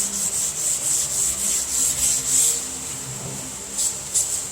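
Sandpaper on a hand sanding block rubbing back and forth across a car hood in quick even strokes, about four a second, stopping about two and a half seconds in, then two short strokes near the end. The sanding is taking heavy scratches out of the panel.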